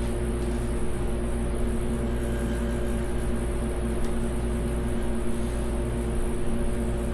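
Steady mechanical hum with a low rumble and a few constant tones, unchanging throughout, like a running appliance or fan in the workshop.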